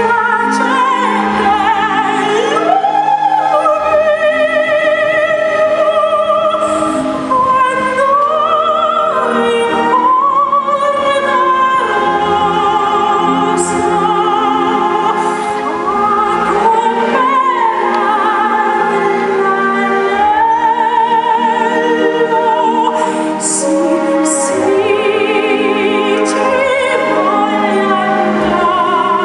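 Operatic singing with a strong vibrato over orchestral accompaniment, held notes rising and falling in long phrases.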